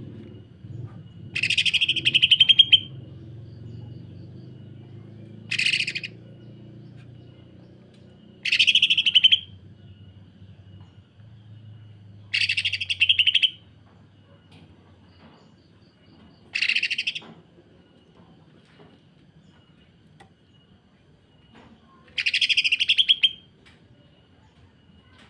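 Green leafbird (cucak ijo) singing six short bursts of rough, very rapid rattling notes, each about a second long, a few seconds apart: the 'sewing machine' kasaran call.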